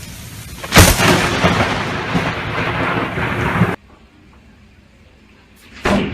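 Close lightning strike: a sharp thunderclap about a second in over the noise of rain, followed by loud rumbling that cuts off suddenly. A second sharp thunderclap comes near the end.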